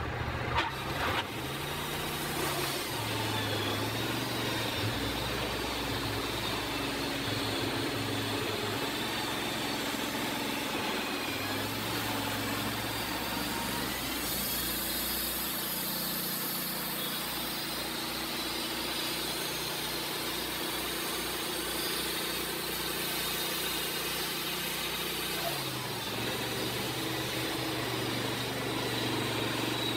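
Kohler gasoline engine of a Wood-Mizer LT15 portable band sawmill running steadily, its note changing about halfway through and changing back a few seconds before the end. A couple of short knocks right at the start.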